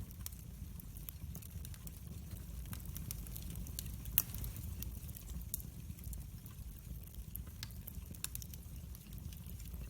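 Wood fire burning in a fireplace: a steady low rumble of the flames with scattered small crackles and pops, one sharper pop about four seconds in.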